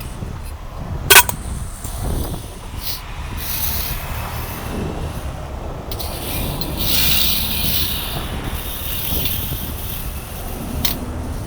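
Heavy recovery machinery running with a steady low rumble and metallic noise, with a sharp loud click about a second in and a few fainter clicks later.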